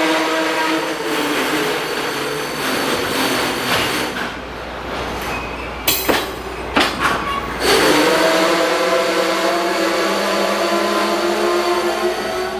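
Container freight train pulling slowly into a station, its wheels giving a steady squeal of several tones at once. About six seconds in the squeal breaks off for a run of sharp metallic clanks, then comes back.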